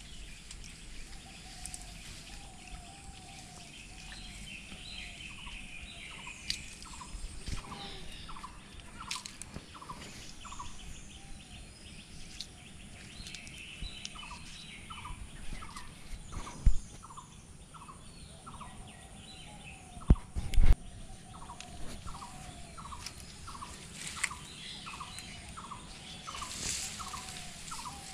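Birds calling around a pond: one repeats a short note about one and a half times a second, others give lower falling calls and high chirps. A few sharp knocks stand out, one in the middle and a double one a little later.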